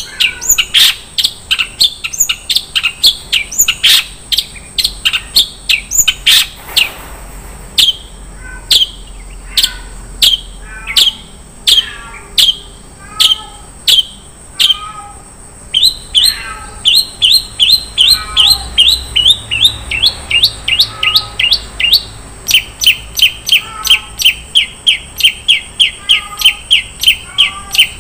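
Long-tailed shrike (cendet) singing a fast, varied string of short sharp chirps and whistled notes, about three or four a second, with a brief pause early on and a quick even rattle of notes near the end. A faint steady high tone runs underneath.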